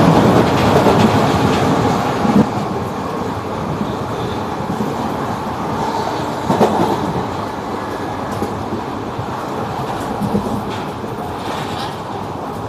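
Kaveri Express passenger train running along the track, with a steady rumble and the clatter of wheels on rails. Three louder knocks stand out, about four seconds apart.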